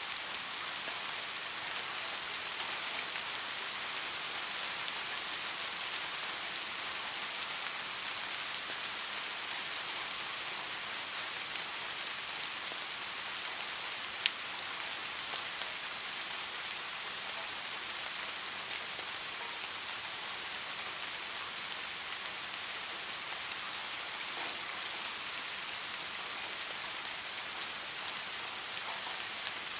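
Steady rain falling, an even hiss with scattered individual drop taps. A single sharper drop click stands out about halfway through.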